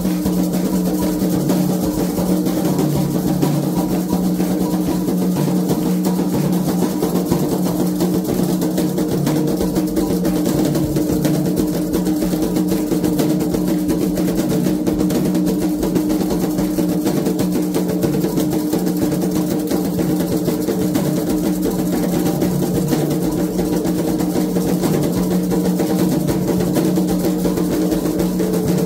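Candomblé ritual drumming on atabaque hand drums, a fast, dense rhythm that keeps going without a break.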